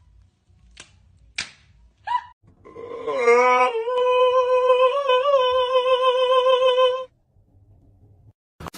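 A few light taps, then a long pitched voice-like cry or hum that slides up and holds one steady note for about four seconds, wavering slightly, before stopping abruptly.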